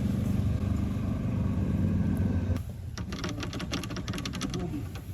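Golf cart engine running with a steady low hum, then cutting off abruptly about two and a half seconds in. A quick run of sharp clicks follows.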